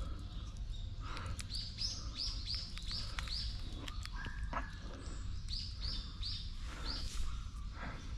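A bird calling in runs of short, high chirping notes, four or five at a time at about three a second, with crunching of dry leaves underfoot.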